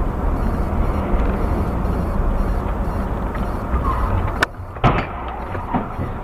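Steady road and engine noise of a car driving, heard from inside the car, broken by a sharp click about four and a half seconds in and another half a second later.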